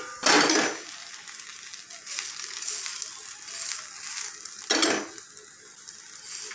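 Ghee sizzling as an aloo paratha fries on a hot tawa, while a spoon spreads ghee across its top. The scraping comes through loudest twice, once just after the start and once about five seconds in.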